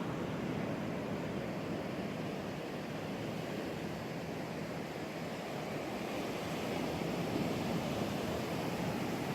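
Ocean surf breaking and washing onto a beach, a steady rushing noise that swells a little near the end.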